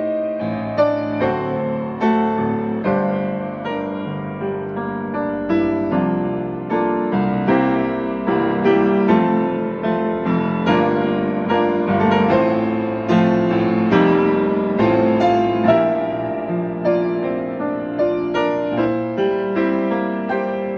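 Solo piano playing a hymn accompaniment with no voice: chords and melody notes struck at an even pace, each ringing and fading.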